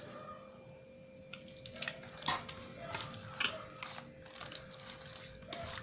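Gram-flour (besan) batter being mixed in a bowl: irregular wet squelching and splatting with a few sharper clicks, starting about a second and a half in.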